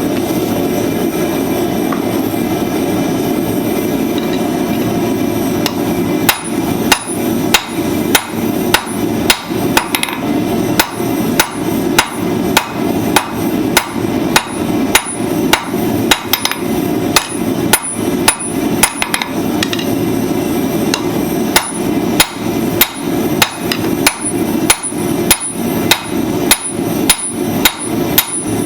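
Steady roar of a forge, joined about six seconds in by a blacksmith's hammer striking hot steel on the anvil, about two blows a second, forging tongs.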